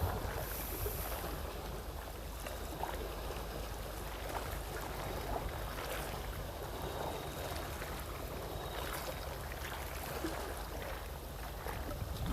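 Steady low rumble of wind and sea water at the shoreline, with a few faint scattered clicks.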